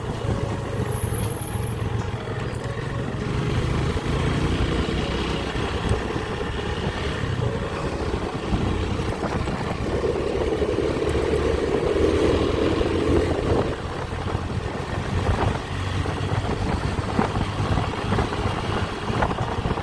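Motorcycle engine running steadily under way, with a continuous noise of the ride over it; a little stronger for a few seconds around the middle.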